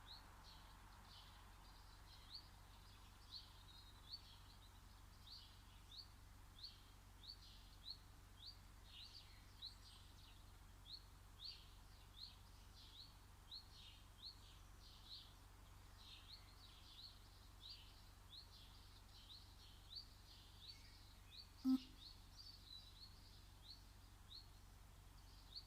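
A songbird calling steadily in a garden: a long series of short, high chirps, about two a second, faint over a quiet background. A single sharp click cuts in near the end.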